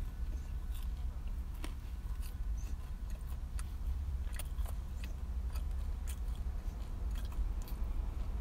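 Close-up chewing of a toasted ham and cheese toastie, with scattered crisp crunches of the toasted bread. A steady low hum from the car cabin runs underneath.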